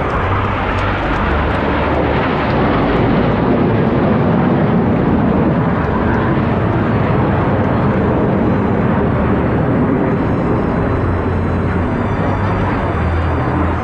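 Aermacchi MB-339 jet, with its Rolls-Royce Viper turbojet, flying over: a loud, steady jet rush that swells over the first few seconds and then holds.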